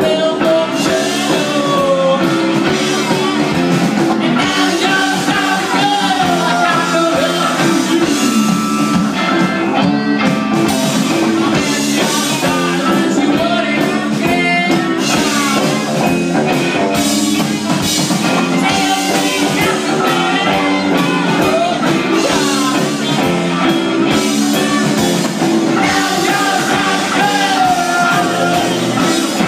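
A rock band playing with a sung vocal over electric guitar and drums.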